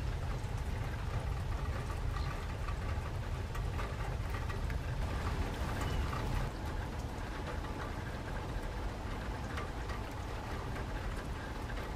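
Light rain falling steadily, with scattered ticks of single drops over a low, steady rumble.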